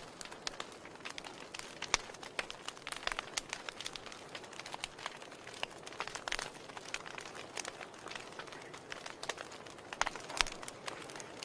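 Wood fire burning in a fireplace, crackling steadily with irregular sharp pops over a soft hiss. A few louder pops come about two seconds in and again near the end.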